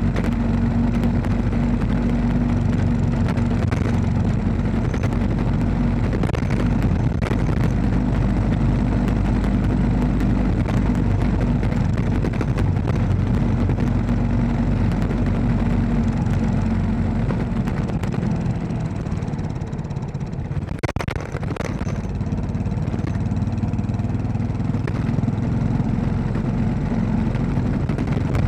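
Royal Enfield Classic 500's single-cylinder engine running steadily under way, easing off for a moment about two-thirds of the way through and then picking up again.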